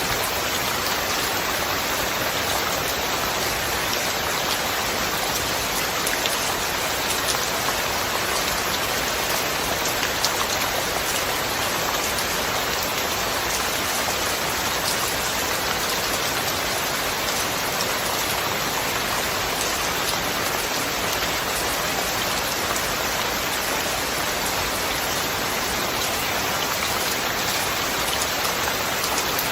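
Steady rain: an even hiss with scattered individual drops ticking through it, no thunder.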